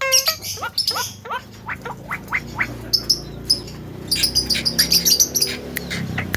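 Javan myna calling: a quick run of short rising whistled notes, then a fast, high chatter through the second half.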